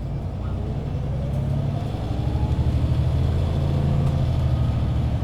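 MAN Lion's City 19C EfficientHybrid bus accelerating through its Voith automatic gearbox, heard from inside the bus: a deep, loud diesel drone that grows stronger, with a whine rising in pitch over the first two seconds or so.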